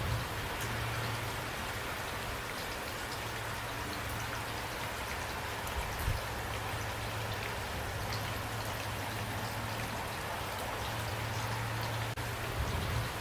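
Steady rain falling, with scattered single drops ticking over an even hiss. A low hum comes and goes underneath, and there is a soft thump about six seconds in.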